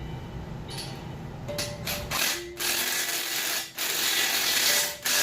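Impact wrench with a 14 mm socket running in three bursts starting about two seconds in, the middle one the longest, tightening a bolt down.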